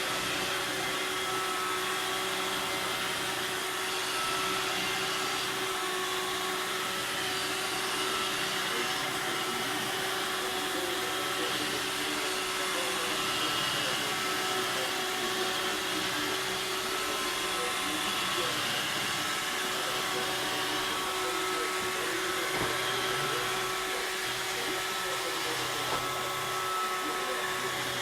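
Robot vacuum cleaner running with a steady whir and hum at an even level.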